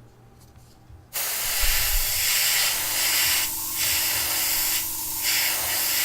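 Paint spraying in a steady hiss that starts about a second in, eases briefly twice and stops near the end: a further coat going on to even out the coverage.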